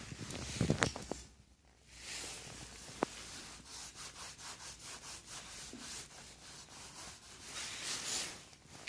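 Mirtels 60×120 impact engraving machine working on stone: a fast run of fine ticks with a scratchy rubbing sound as the needle strikes the surface, after a few knocks and a short pause near the start.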